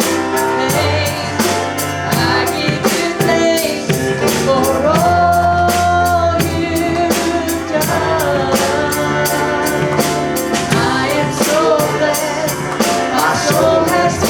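Live gospel church music: a band with a drum kit keeping a steady beat under sustained instrument chords, with a voice singing a melody.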